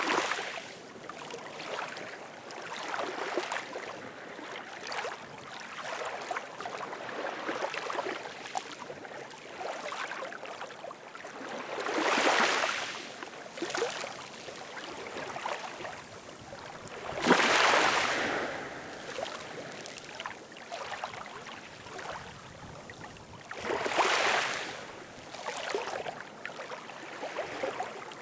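Ocean waves washing on a shore: a constant hiss of moving water and small splashes, with three bigger waves surging and breaking about six seconds apart in the second half.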